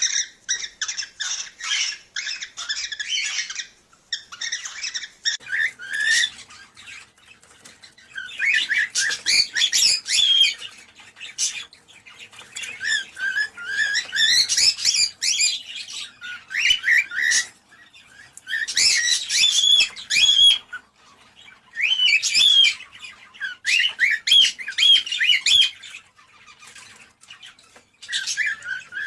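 Cockatiels chirping and chattering in fast, busy bouts of a few seconds each, broken by short pauses.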